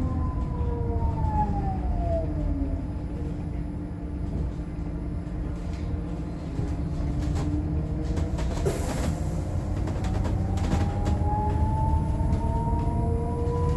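Electric traction motor whine of a Scania K310 bus converted to electric drive by Eletra: several tones fall in pitch over the first few seconds as the bus slows, then rise again from about eight seconds in as it speeds up. A short hiss comes just before the rise.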